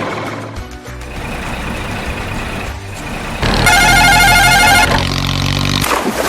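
Truck engine running, with a loud pitched tone lasting about a second just past the middle.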